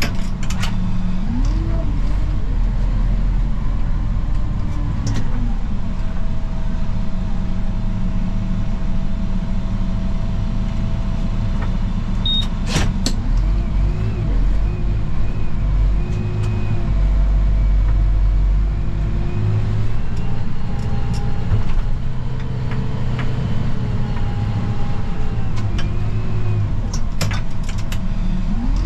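Snow-plowing tractor's engine running under load, its pitch rising and falling several times as the throttle changes, with a few sharp clicks along the way.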